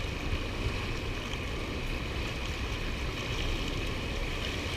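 Steady rush of high water pouring out of a dam spillway, with wind buffeting the microphone.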